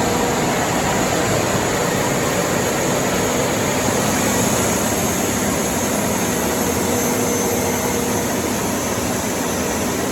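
Kenworth W900's rebuilt Cat C15 inline-six diesel running steadily under load on a chassis dyno, a loud, dense, unchanging engine and roller noise with a faint high whine over it.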